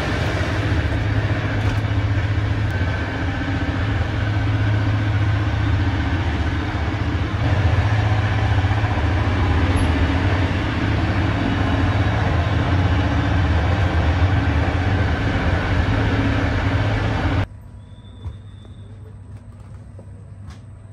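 Loud steady rumble and hum of a moving sleeper train heard from inside its toilet compartment. It drops abruptly to a much quieter hum near the end.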